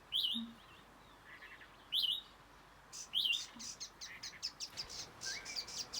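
A bird's alarm calls: three sharp, high chirps spaced a second or two apart, then from about three seconds in a fast run of short chips, about five a second.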